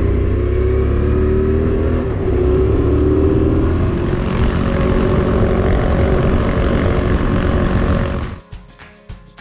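Motorcycle engine pulling away and accelerating, its pitch rising in steps through the gear changes. A little before the end it gives way abruptly to music with a steady beat.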